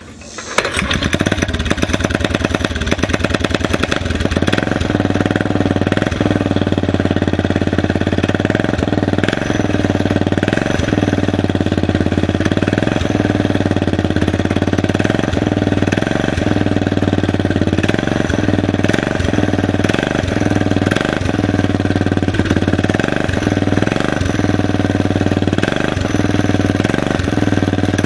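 Predator 6.5 hp single-cylinder mini bike engine starting about half a second in, then running steadily and loudly.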